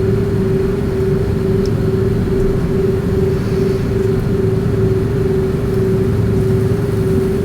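Steady cabin noise inside an Airbus A330 airliner: an even low rumble with a constant mid-pitched drone, unchanging in pitch and level.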